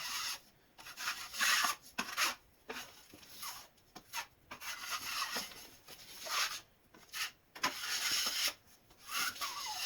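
A drywall knife spreading and scraping joint compound across sheetrock: a run of short, rasping strokes, roughly one a second, with a faint squeak of the blade near the end.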